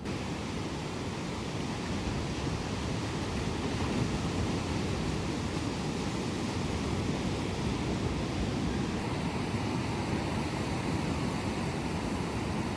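Steady rushing noise of sea surf with wind buffeting the microphone, heaviest in the low range and without any distinct events.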